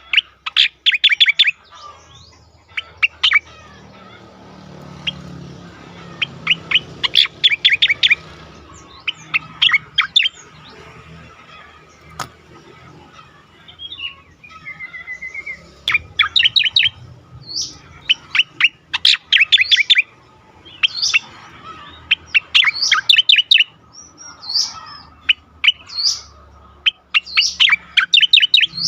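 Cica koreng (striated grassbird) singing its energetic song: repeated bursts of rapid, high chattering notes separated by short gaps, with a brief wavering whistle about halfway through.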